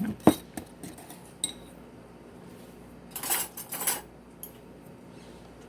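A utensil clinking against a bowl and scraping around it while stirring thick homemade ranch dressing: a couple of sharp knocks at the start, one ringing clink about a second and a half in, two scrapes a little past halfway, then a few light taps.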